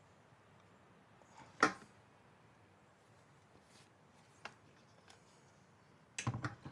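A few sharp clicks and knocks of parts being handled and fitted, over faint background hiss. The loudest click comes about a second and a half in, and a quick cluster of knocks comes near the end.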